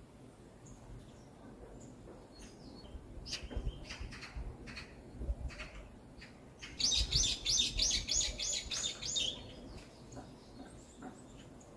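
Forest birdsong: faint high chirps, then a few sharp short calls, then about two-thirds of the way through one bird sings a fast run of about nine evenly repeated high notes lasting about two seconds.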